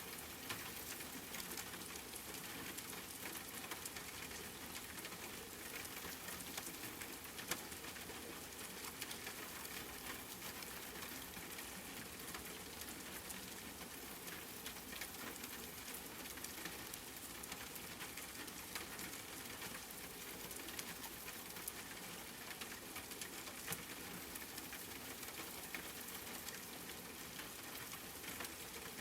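Steady rain falling, an even hiss dotted with fine ticks of individual drops.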